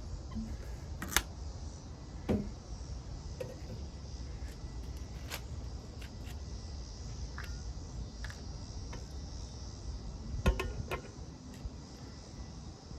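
Scattered clicks and knocks from a small camp stove being handled and set up, the loudest cluster about ten and a half seconds in, over a steady low rumble and a faint high hiss.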